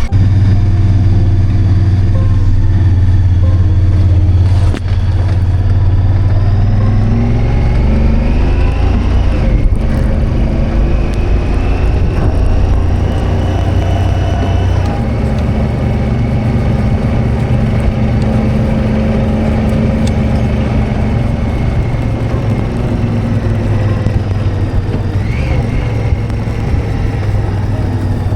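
A vehicle's engine running while driving, with a steady low drone whose pitch rises and falls.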